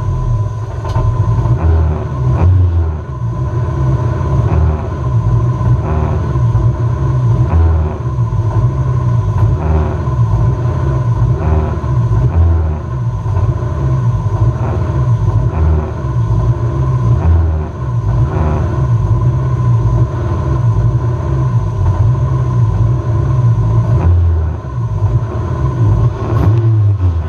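Race-prepared Honda 1.6-litre four-cylinder engine idling while the car stands still, heard from inside the stripped cabin. The low rumble swells and eases about every two seconds.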